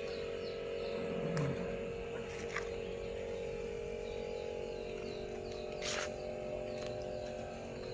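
A steady mechanical hum runs under a series of short, high-pitched falling chirps that repeat a few times a second. A brief sharp hiss or click comes near the end.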